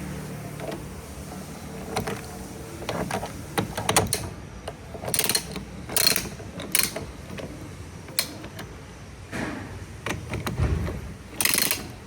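Ratchet wrench working a 10 mm nut, clicking in short irregular bursts with metal scrapes and knocks between the strokes.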